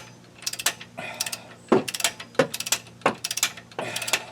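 Hand ratchet wrench clicking in about five short bursts of rapid clicks, the back-strokes of tightening brake caliper bolts.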